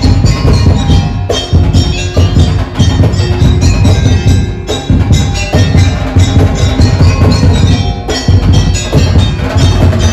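Madurese daul (tong-tong) percussion music: wood-block-like slit drums and bell-like metal percussion struck in a fast, dense rhythm over a heavy drum beat with strong bass.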